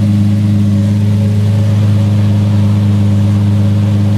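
Lamborghini engine running at a steady speed, a loud, even engine note that holds one pitch.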